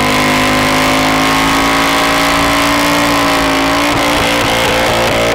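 A car engine held at high revs, loud and steady, its pitch drifting only slightly.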